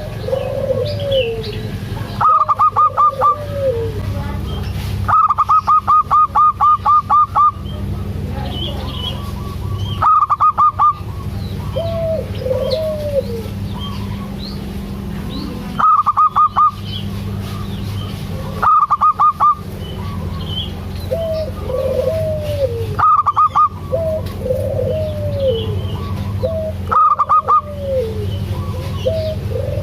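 Zebra dove (perkutut) calling: loud bursts of rapid repeated notes recur every few seconds, with lower arched cooing notes in between. Faint small chirps and a steady low hum sit underneath.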